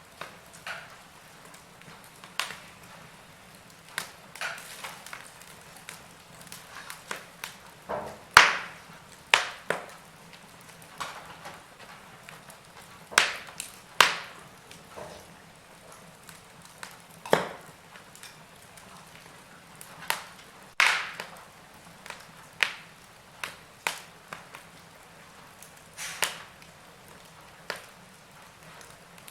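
Wood fire in a fireplace crackling, with irregular sharp pops and snaps; the loudest pop comes about eight seconds in.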